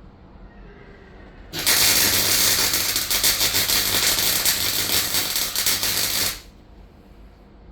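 Welder arc crackling steadily through one run of about five seconds, with a low hum under it, as a rust hole in a van's steel floor is welded shut. It starts and cuts off abruptly.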